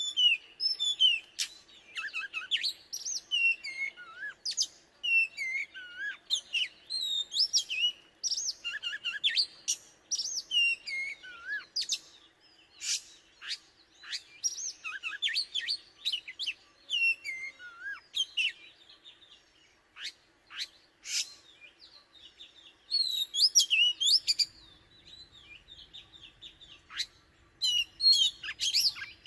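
Oriental magpie-robin singing: a long run of varied whistled phrases and sharp chirps, many sweeping up or down in pitch, with brief pauses between phrases.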